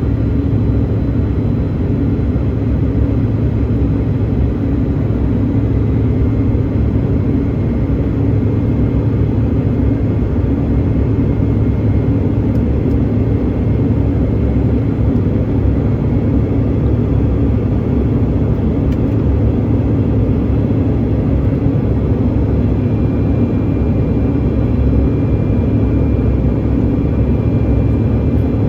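Steady low drone of a passenger jet's engines and rushing air, heard inside the cabin, with a faint steady high whine over it.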